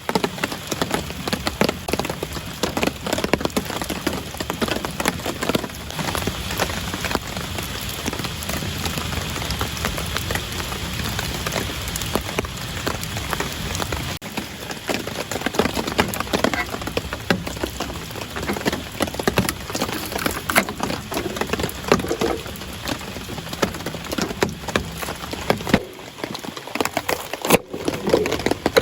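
Steady rain falling, a dense patter of many drops striking surfaces.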